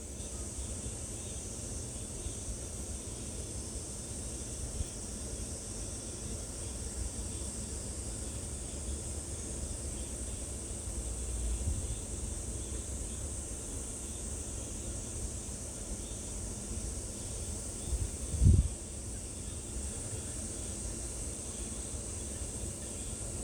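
Outdoor ambience: a steady, high-pitched insect drone over a low wind rumble on the microphone, with one short thump about 18 seconds in.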